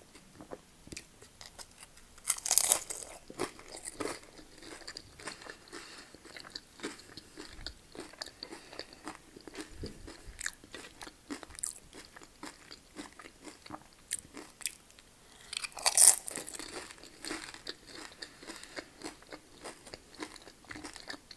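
Close-miked eating: a person biting, crunching and chewing food with small wet mouth clicks, with two louder crunches about two and a half seconds in and near the sixteen-second mark.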